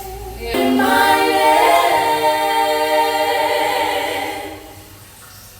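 A small group of voices singing a gospel song a cappella, holding one long phrase in harmony from about half a second in, then fading out near the end.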